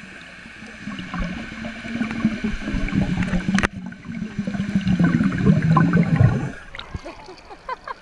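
Rushing, splashing water close to the microphone, starting about a second in, breaking off sharply for a moment near the middle and dropping away abruptly near the end.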